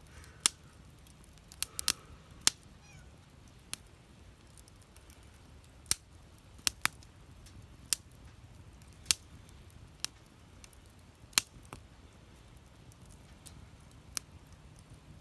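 Wood fire burning in a fire pit, popping and crackling: about a dozen sharp, irregular snaps over a low steady hum.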